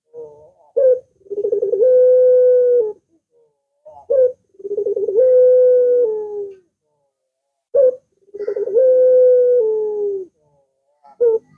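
Puter dove cooing: three calls in a row, each a short clipped note followed by a long held coo that rolls at its start and drops in pitch near the end, and a fourth call beginning right at the end.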